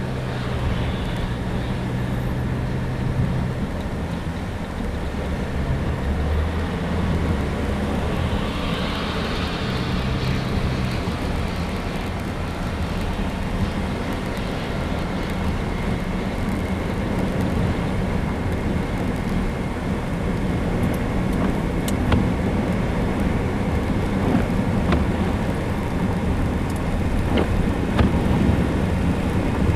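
A vehicle's engine running with a steady low hum that shifts pitch now and then, under constant road and wind noise, with a few light clicks near the end.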